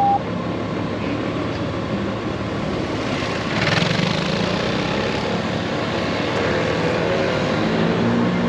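Honda GoldWing DCT's flat-six engine running steadily at road speed under a steady rush of wind and road noise, with a brief swell of noise about three and a half seconds in.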